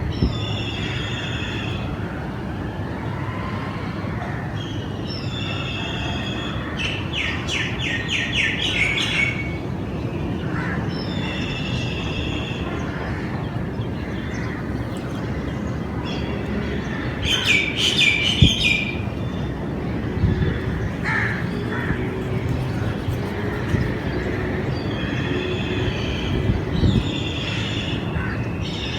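Birds calling: short high calls repeated every few seconds, with two rapid trilling bursts, over a steady low rumble.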